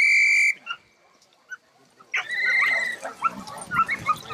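A dog-training whistle: the end of one long steady blast, then about two seconds in a shorter trilled blast, followed by puppies yipping and whining.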